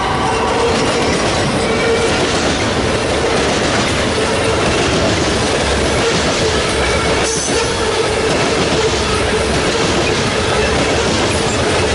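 Freight cars of a mixed manifest train (flatcar and covered hoppers) rolling past: a loud, steady rumble and clatter of steel wheels on rail, with a wheel squeal note coming and going.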